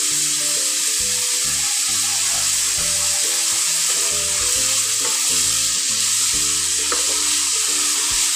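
Shredded vegetables sizzling steadily in a hot non-stick frying pan while being tossed and stirred with a wooden spatula.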